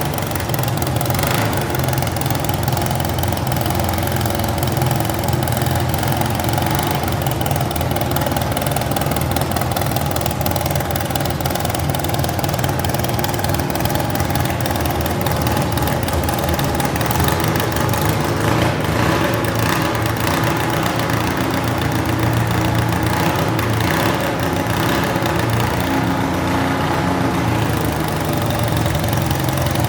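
Garden tractor engine running steadily at a low, even speed, close by.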